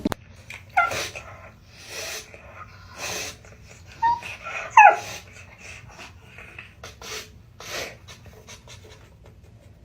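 A dog breathing hard in short, noisy breaths at irregular intervals, with two brief falling whines, about a second in and just under five seconds in, the second one the loudest.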